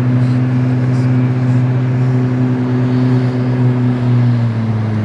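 Motorboat engine running steadily with a low hum, its pitch dropping slightly near the end.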